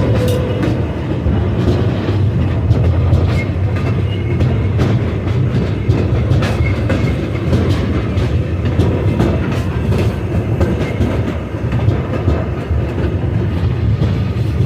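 Heritage train running along the track, heard from aboard: a steady low rumble with scattered clicks and clacks of the wheels over the rails.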